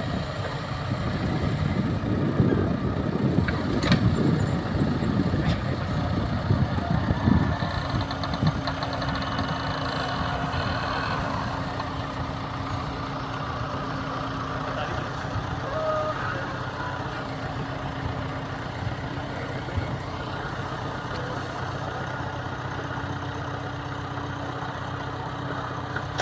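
Engine of dam-cleaning machinery running steadily, rougher and louder for the first several seconds, then settling to an even drone.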